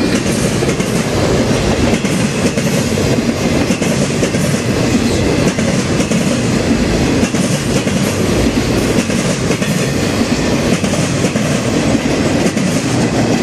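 Circus train's loaded flatcars rolling past on the track, with a steady noise of steel wheels running on the rails.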